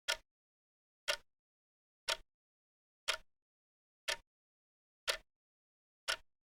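Clock ticking steadily, one short, sharp tick each second with silence between.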